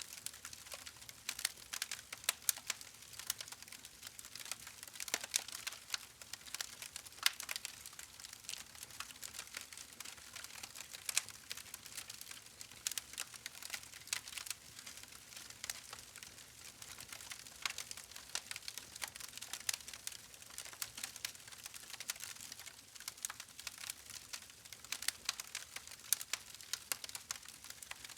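Wood fire crackling: irregular sharp pops and snaps over a soft hiss, steady throughout.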